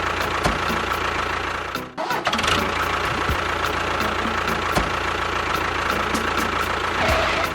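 An engine running steadily. It cuts out briefly about two seconds in, then runs on at the same level.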